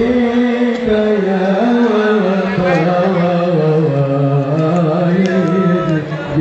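Devotional Islamic singing (sholawat): a slow, ornamented vocal melody with long held notes that glide and waver.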